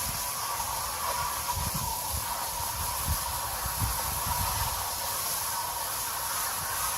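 Garden hose spraying water through an air-conditioner condenser coil to flush out packed cottonwood, a steady hiss of spray. A few low bumps come about two to four seconds in.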